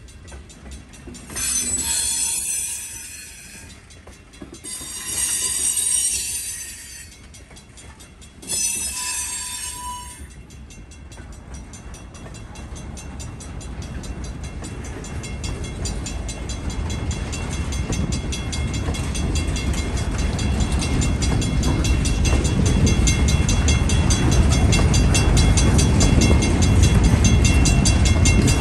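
Freight train cars rolling past on jointed track, a rumble of wheels on rail that grows steadily louder over the second half. In the first ten seconds three loud, high-pitched sounds of a second or two each stand out above it.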